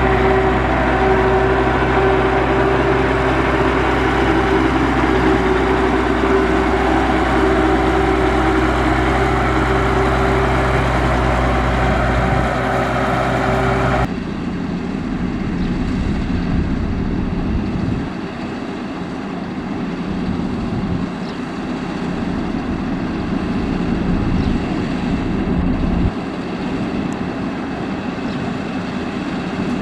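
Diesel engines of heavy road-construction machinery running steadily. About halfway through, the sound changes suddenly to a quieter, rougher engine sound from another machine.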